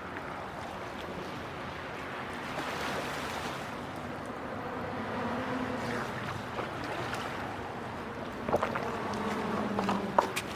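Steady rushing outdoor noise, with faint low tones coming and going and a few sharp knocks near the end.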